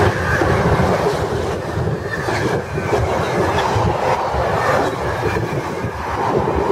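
Freightliner freight train running through the station at speed, its wagons rumbling and clattering along the rails.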